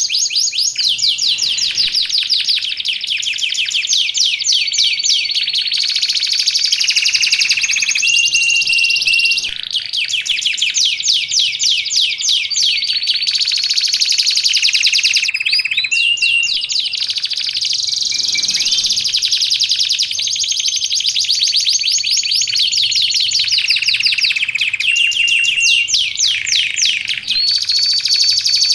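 Domestic canary singing nonstop: long fast trills and rapid runs of repeated high notes, broken by short held whistles, with no pause.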